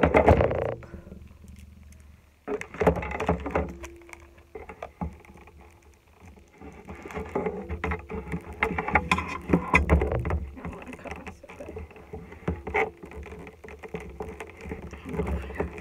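Cardboard toy box being handled and pried at to get it open: irregular rustling, scraping and knocks, with a sharp loud clatter at the start.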